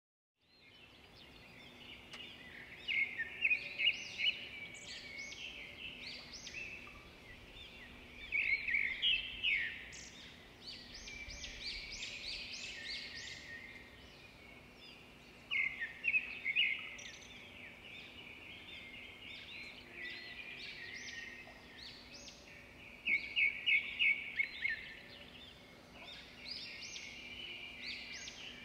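Birds chirping and singing: quick, high chirps and trills, rising four times into louder bursts of rapid chirping, over a faint steady low hum.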